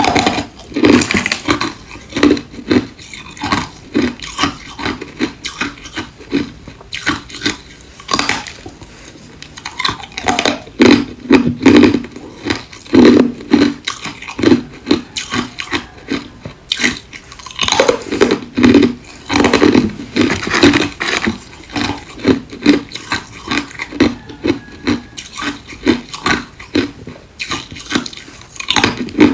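Ice being crunched and chewed close to the microphone: clusters of sharp, rapid cracks and crunches, with short quieter pauses between bites.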